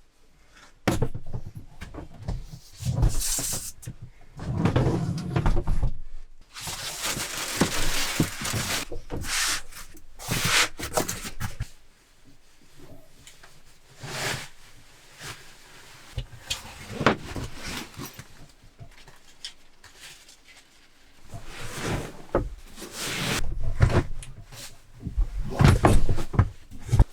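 Irregular handling noises in a small enclosed space: things being rubbed, moved and set down, with scattered knocks and clicks and a few longer rustling stretches.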